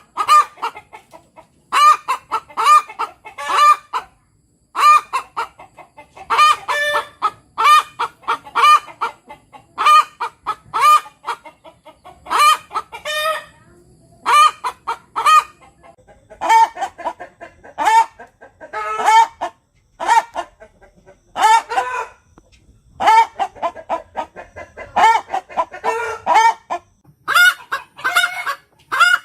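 Chickens clucking and calling: many short, pitched calls in quick clusters.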